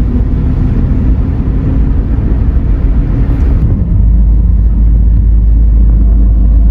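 Steady low road rumble of a car being driven, growing louder and more even about four seconds in.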